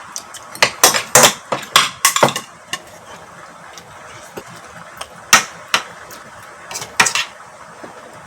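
Utensils clinking and scraping against dishes while eating: a quick run of sharp clacks, then a few single clinks spaced out after.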